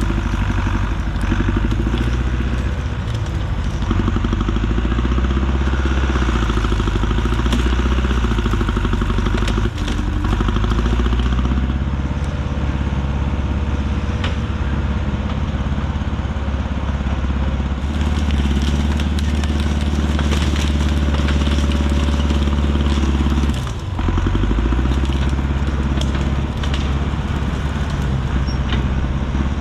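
Heavy land-clearing equipment's engine running steadily under load, its pitch shifting now and then, with crackling and clattering of brush and limbs being pushed and broken.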